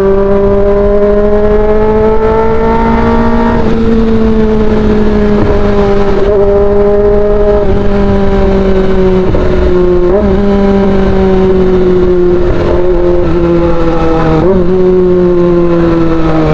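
Kawasaki ZX-25R's 250 cc inline-four running at high, fairly steady revs through an Austin Racing GP1R exhaust while riding. The pitch rises a little at first and then slowly sags, with brief blips of the throttle about ten and fourteen seconds in.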